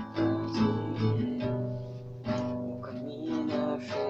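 Acoustic guitar strummed, playing a run of chords with a few sharp strokes and the notes ringing on between them.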